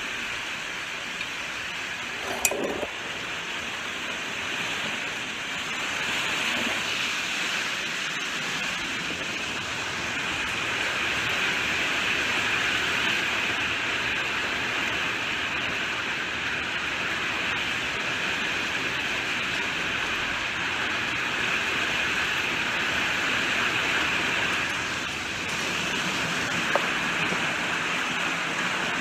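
Steady rain falling, an even hiss that swells and eases slightly, with one sharp click a couple of seconds in and a fainter one near the end.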